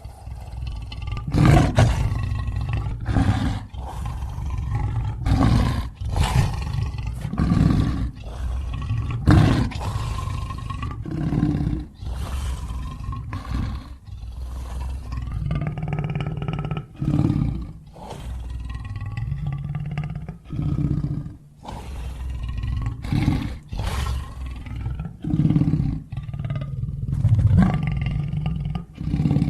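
Sound-effect roars and growls of a made-up dinosaur creature, one call after another with short breaks between them, some calls bending in pitch.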